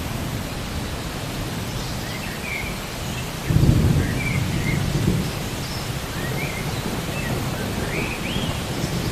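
Steady rain with a low rumble of thunder that swells about three and a half seconds in. Several short rising chirps sound faintly above the rain.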